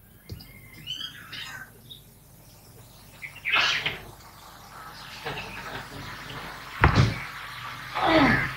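Scattered bird chirps and calls, with a sharp knock about seven seconds in and a call falling in pitch near the end.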